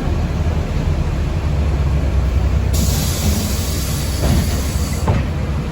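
Steady low rumble of a city bus riding along, heard from inside the passenger cabin. A hiss of air sets in abruptly about halfway through and cuts off about two seconds later.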